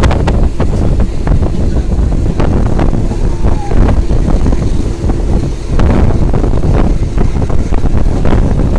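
Wind buffeting the microphone on a moving passenger train, over the low rumble of the coaches running on the track, with irregular sharp clicks and clatters from the wheels and running gear.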